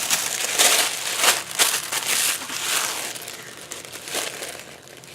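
Packaging crinkling and rustling as it is handled, a dense run of crackles that is busiest in the first three seconds and thins out toward the end.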